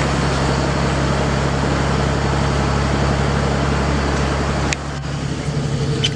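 Large V12 multi-fuel diesel (CHTZ V587) of a MAZ-7917 heavy carrier running steadily at constant speed. A sharp click comes about three-quarters of the way through, after which the engine is a little quieter.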